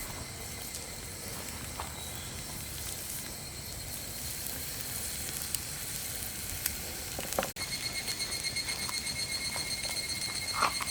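Food sizzling on a thick iron griddle plate over a wood campfire, a steady frying hiss. About seven seconds in, the sound breaks off abruptly and a high, pulsing tone joins the sizzle; a short knock comes near the end.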